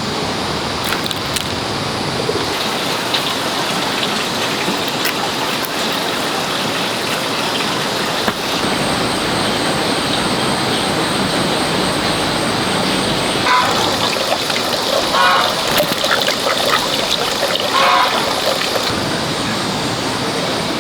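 Steady rushing noise like running water, with scattered light clicks and knocks of handling and a few short, higher sounds in the second half.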